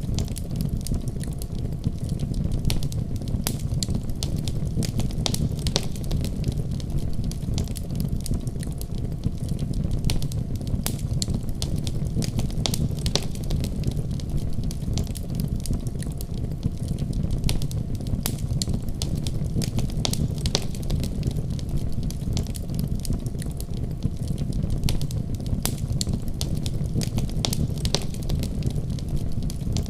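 Wood fire burning in a fireplace: many small, irregular crackles and pops over a steady low rumble.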